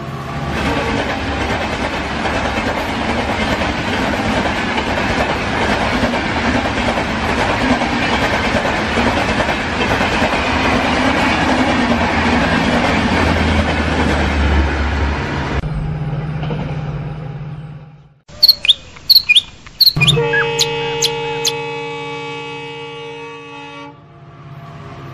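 Train running, a steady rolling noise for about fifteen seconds, then after a sudden change a run of loud sharp clicks and a held horn of several tones.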